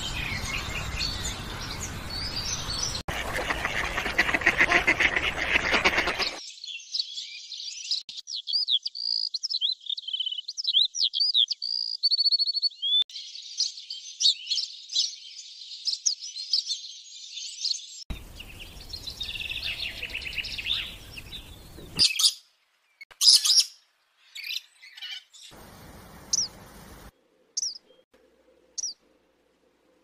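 Bird calls and songs from several recordings spliced together, changing abruptly every few seconds: dense chattering at first, then quick high chirps and trills, and near the end a few loud, sharp single calls and sparse short chirps with silent gaps between them.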